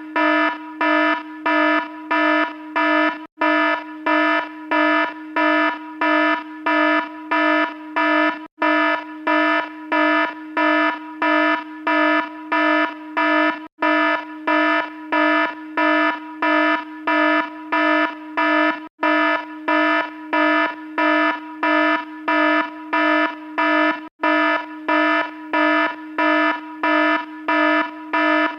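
Alarm sounding in fast, even pulses of a harsh, buzzy tone, about two beeps a second. A very short break comes about every five seconds.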